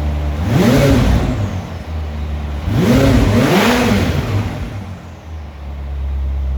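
McLaren 570S twin-turbo V8 idling through a custom straight-pipe exhaust and blipped three times: once about half a second in, then twice back to back around three seconds in, each rev rising and falling quickly before it settles back to idle.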